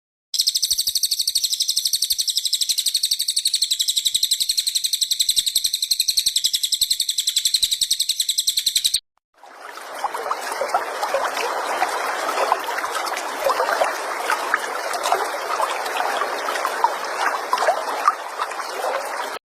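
Recorded songbird calls in two cuts. First comes a fast, even, high-pitched buzzing trill for about nine seconds. After a brief gap, a busy stretch of many quick chirps follows over a steady hiss.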